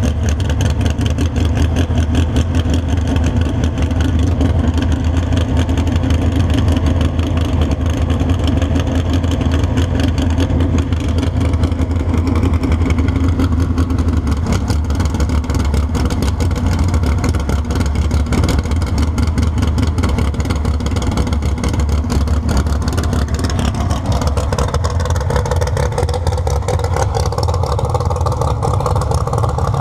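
Drag car's engine idling loudly with a choppy, rapid firing beat, its pitch rising a little over the last few seconds as the car creeps forward.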